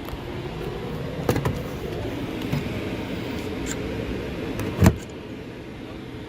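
Tesla Supercharger connector being handled and plugged into a Model 3's charge port: a few light clicks, then one loud clunk about five seconds in, over a steady low hum.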